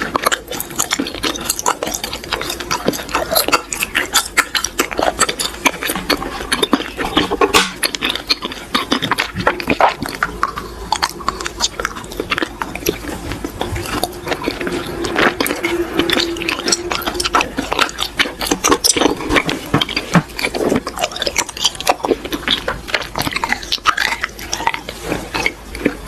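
Close-up eating sounds: crisp crunching and chewing of small character-shaped cookies, full of dense sharp crackles.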